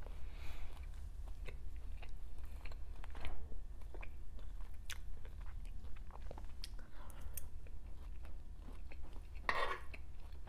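A person chewing food close to a clip-on microphone: soft wet mouth sounds with many small scattered clicks, and one louder mouth sound near the end.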